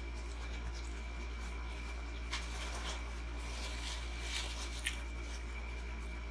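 Soft squishy mouth sounds of chewing a slider, with a paper napkin crinkling against the mouth in two short bouts, a couple of seconds in and again about four seconds in, over a steady background hum.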